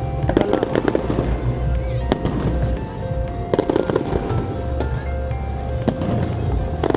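Fireworks display: repeated sharp bangs and crackling bursts, with music playing throughout.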